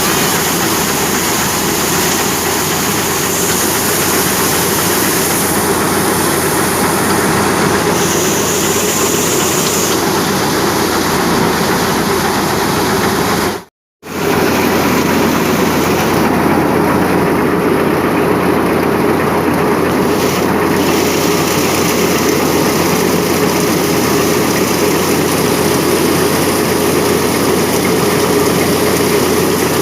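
Tractor-driven wheat thresher running steadily: the tractor engine and the thresher working together in one loud, continuous machine noise, broken once by a brief dropout to silence about 14 seconds in.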